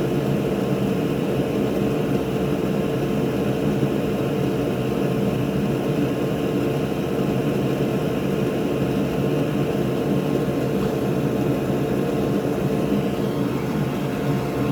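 Steady whirring drone of an electric fan motor, with a low hum under it.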